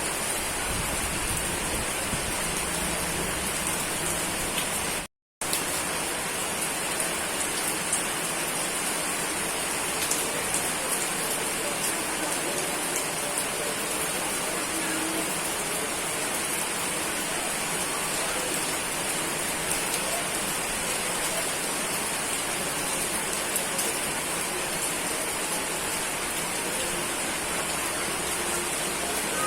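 Steady, heavy rain falling, an even hiss of drops with no thunder. About five seconds in, the sound cuts out completely for a split second and then resumes at once.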